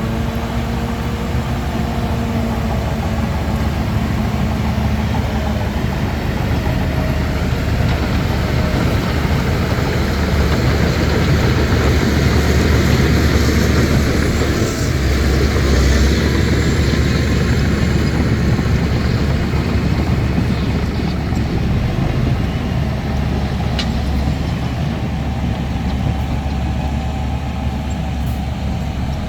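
Bulldozer's diesel engine running steadily with a deep rumble while it pushes soil, working a little harder about halfway through.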